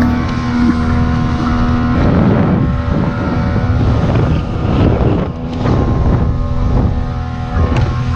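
Motorboat engine running steadily with the boat under way, with wind noise on the microphone; from about two seconds in, a rougher rushing noise rises over the engine's hum.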